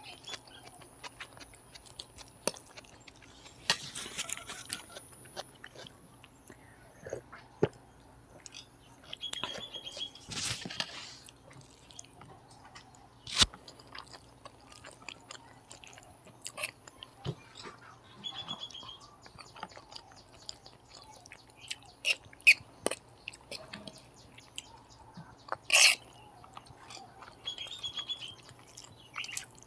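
Close-miked chewing of Maggi noodles and fried egg, with scattered sharp clicks of a metal fork against a steel plate.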